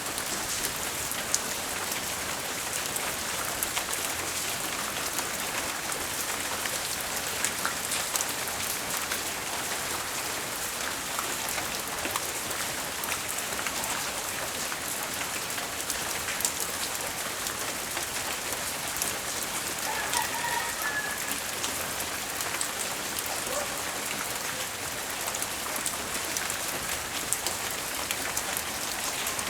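Steady rain falling, with individual drops ticking sharply on a hard surface. Briefly, about two-thirds of the way through, there is a faint short high-pitched sound.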